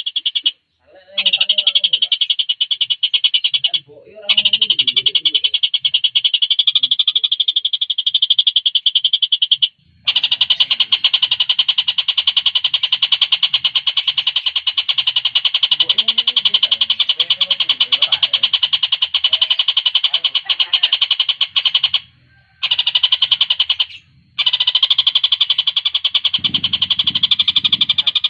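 Tengkek buto, a kingfisher, singing a fast, tightly packed trill of high chattering notes. The trill runs in long phrases that break off briefly about five times.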